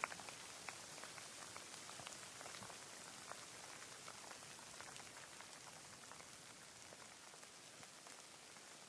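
Light rain falling: a soft steady hiss with scattered individual drops ticking close by, one louder drop right at the start, the rain easing slightly as it goes.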